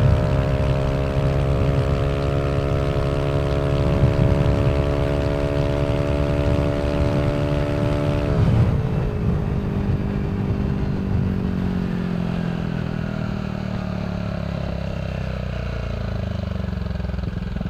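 Yamaha Aerox 155 scooter's single-cylinder engine through a Villan SR1 aftermarket exhaust, held at high revs under open throttle with the VVA engaged. After about eight seconds the pitch drops sharply as the throttle closes, and the engine winds down while the scooter rolls on.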